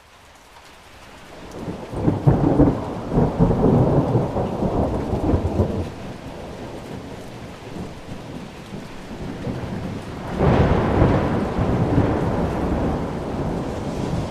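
Thunder rumbling over steady rain: the sound swells up from quiet at the start, then two long rolls of thunder, the first about two seconds in, the second about ten seconds in.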